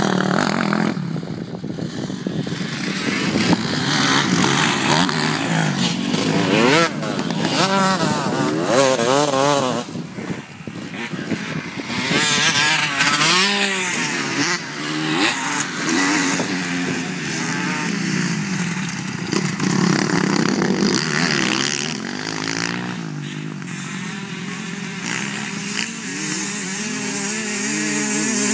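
Several motocross bike engines revving hard and dropping off as they ride the track, their pitches rising and falling and overlapping.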